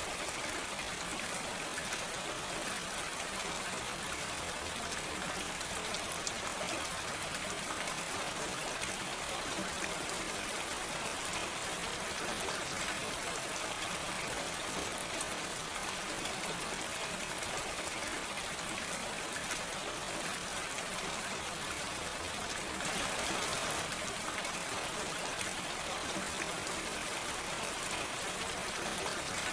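Steady gentle rain falling, without thunder, with fine pattering of raindrops; it swells slightly about 23 seconds in.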